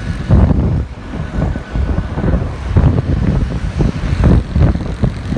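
Wind buffeting the microphone on a moving bike, over road traffic noise. The low rumble surges and drops unevenly.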